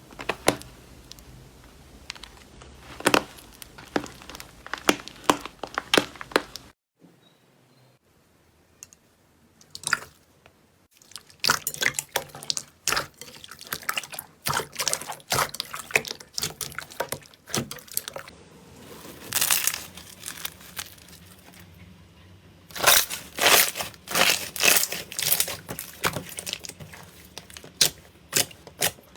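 Slime being squeezed and poked, giving clusters of quick, sharp crackling and popping clicks, with a brief silent break about seven seconds in.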